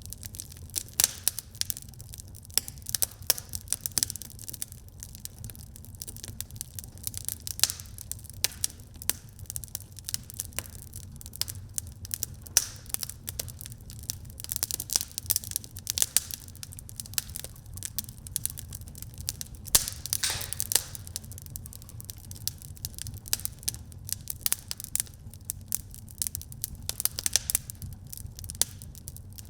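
Wood fire crackling and popping in a fireplace: irregular sharp snaps over a steady low rumble of the flames, with a brief flurry of hissing crackles about two thirds of the way through.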